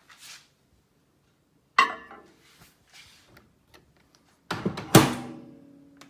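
Miele built-in microwave oven being handled: a sharp click about two seconds in, then a few knocks and a loud thunk about five seconds in, like the door being shut, which leaves a low metallic ring fading out.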